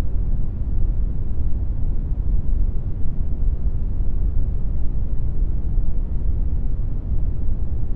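Computer-generated brown noise: a steady, deep rumbling hiss with no changes, its energy heaviest in the bass and thinning out toward the treble.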